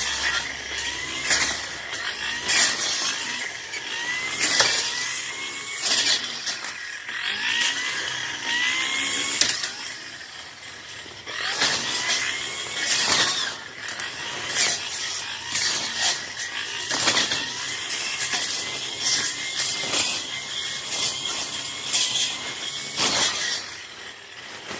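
Tanzu brush cutter's small engine running, its pitch rising again and again, with sharp cracks every second or two as the blade strikes brush.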